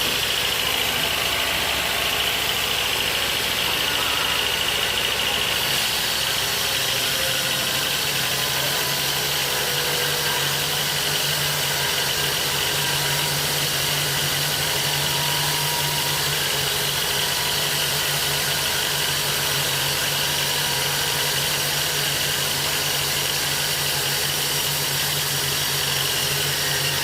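An engine running steadily at idle, with a change in its tone about six to seven seconds in.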